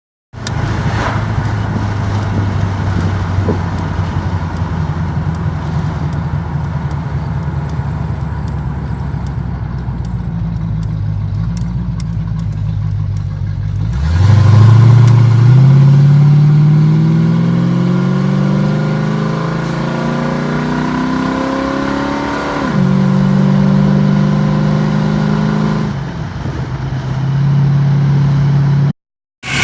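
1978 Chevrolet Caprice's 305 small-block V8 through glasspack mufflers, idling steadily for about fourteen seconds. It then accelerates, the engine note rising for about eight seconds before dropping suddenly, as at a gear change, then holds steady and eases lower near the end.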